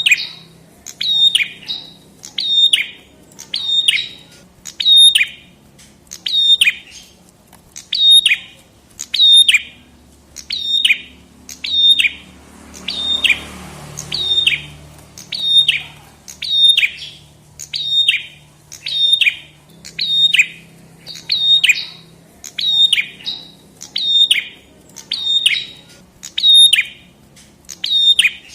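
Prenjak kepala merah songbird calling over and over: one sharp, downward-sweeping chirp about every three-quarters of a second, in an even, unbroken series.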